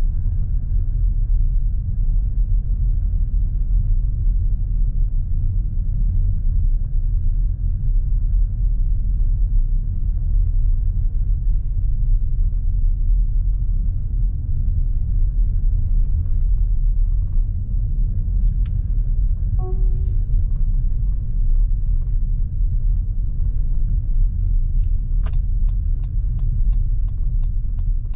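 Steady low road and tyre rumble inside the cabin of a moving Lexus NX350h hybrid SUV. About two-thirds of the way through there is a short chime, and near the end an even ticking starts at about two ticks a second, typical of a turn-signal indicator.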